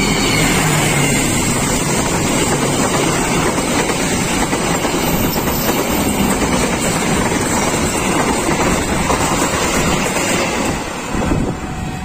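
Diesel-hauled passenger train of Indonesian Railways passing at close range, first the locomotive and then the coaches. Its wheels make a steady, loud rumble and rattle on the rails, which drops a little near the end.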